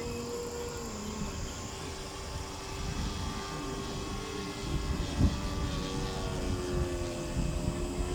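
Radio-controlled Seagull Models T-34 Mentor scale model plane's engine droning in flight, its pitch shifting and dropping a little in the second half. Low rumble and a knock on the microphone about halfway through.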